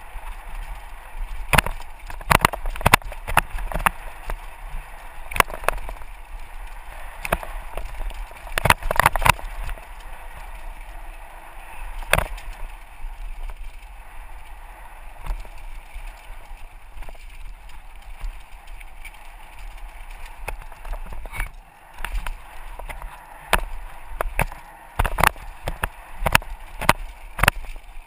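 Mountain bike riding down a rough dirt trail, recorded from a helmet-mounted GoPro. A steady rush of noise runs throughout, broken by frequent, irregular sharp knocks and rattles as the bike goes over bumps and rocks.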